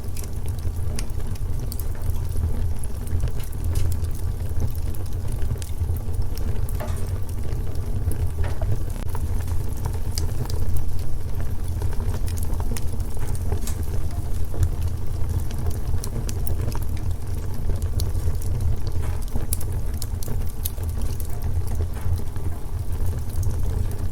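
Fire burning in a fireplace: a steady low rumble of the flames with scattered crackles and pops throughout.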